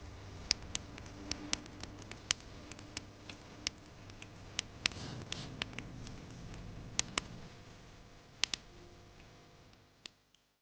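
Wood fire crackling, with sharp, irregular pops and snaps over a low rumble, fading out near the end.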